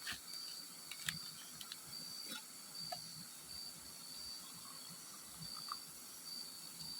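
Pre-dawn forest ambience: a steady high-pitched insect trill, broken by short gaps, over a constant hiss of river water, with a few faint clicks.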